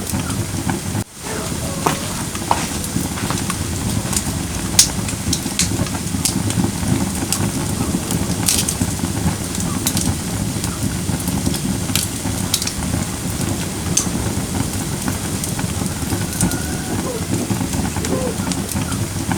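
Firewood burning in a fire pit: a steady low rush of flame with sharp crackles and pops at irregular moments, every second or two. The sound cuts out for an instant about a second in.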